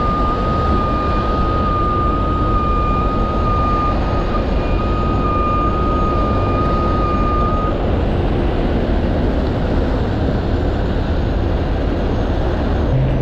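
Heavy rotator wrecker's diesel engine running steadily under load, with a steady high whine over it that stops about eight seconds in.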